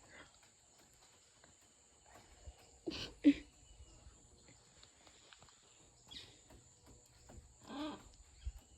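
Quiet rainforest background with a steady high-pitched insect drone. A few short pitched calls or exclamations come about three seconds in, briefly around six seconds, and near the end.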